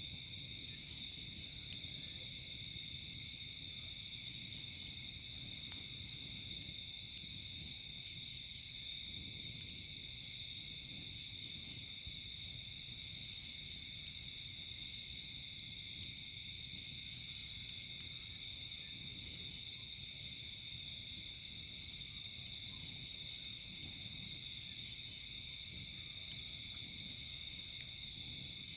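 Night insects, crickets among them, chorusing in a steady high trill. A higher buzz swells and fades about every five seconds, and there are a couple of sharp pops, one about a quarter of the way in and one around the middle.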